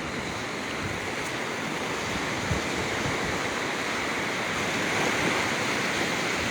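Ocean surf washing onto the beach, a steady rush of breaking waves that swells a little later on.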